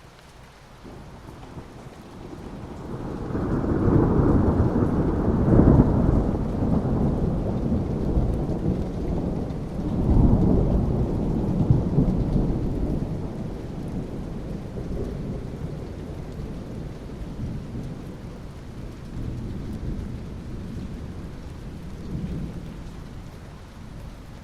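Rain falling steadily, with a long roll of thunder that builds about three seconds in. It swells again around ten seconds and then slowly dies away.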